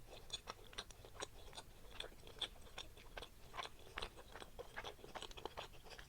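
Close-miked chewing of a soft mango-flavoured bread: quiet, many small irregular mouth clicks, several a second.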